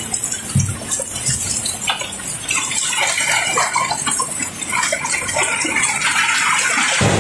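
Cobblestones pouring and tumbling over one another in a dense rattling clatter of stone knocking on stone, growing thicker and louder about halfway through. Just at the end it changes suddenly to a steady rushing noise.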